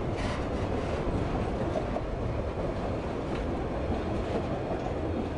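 Tank cars of a freight train rolling past: a steady rumble of steel wheels on the rails, with a few faint clicks.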